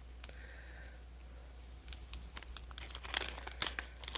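Snack wrapper crinkling and rustling as the cake is handled and opened. It begins about halfway through as quick crackles and ends with a few sharp, louder snaps.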